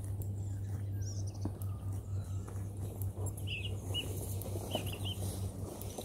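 Small birds chirping in a few short groups of notes, over a steady low hum.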